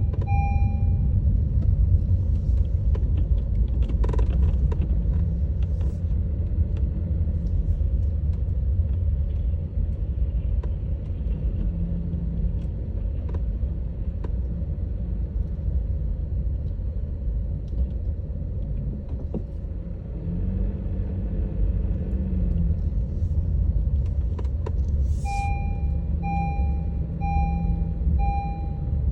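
Steady low road and engine rumble inside a Honda HR-V's cabin while driving on a snowy road. An electronic warning beep repeats evenly, a little faster than once a second, right at the start and again from near the end.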